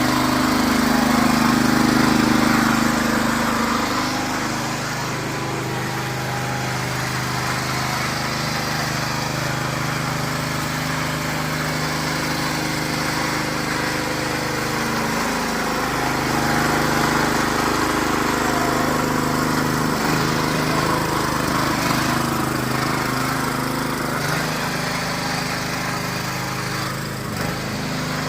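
Two-wheel hand tractor engine running steadily while threshing finger millet, its pitch dipping and rising a few times as the load changes.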